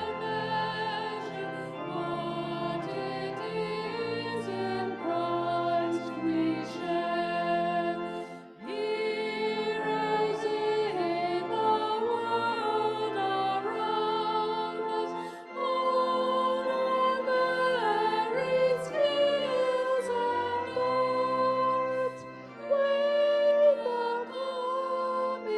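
Hymn music: slow sustained chords with a melody line, likely sung along by a congregation.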